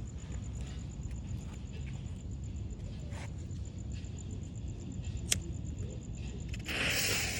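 Aliens 24-shot firework cake hissing loudly near the end, after a single sharp click a little past five seconds in, over a steady low rumble.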